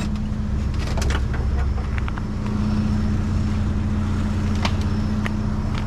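Steady low engine hum, with scattered light clicks and knocks from items being handled.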